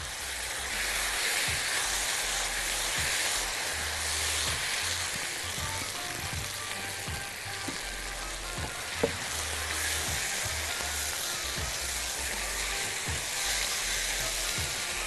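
Chopped liver, tomatoes and herbs sizzling as they fry in a hot pan, stirred and turned with a silicone spatula. One sharp tap about nine seconds in.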